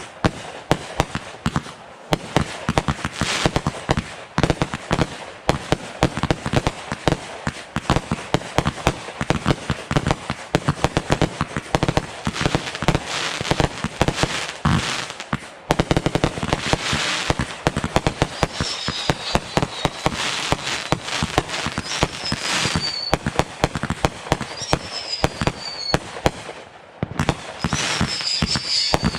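Fireworks and firecrackers going off in a dense, continuous barrage of sharp pops and bangs. In the second half, short high falling whistles cut through several times.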